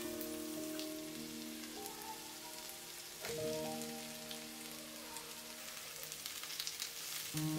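Vegetables frying in oil in a wok: a steady crackling sizzle with scattered light pops. Background music of held chords plays over it, changing chord about three seconds in.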